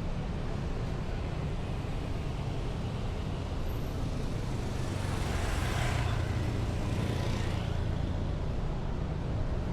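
Heavy city street traffic: a steady low rumble of engines, with a vehicle passing close by about halfway through, its noise swelling and then fading.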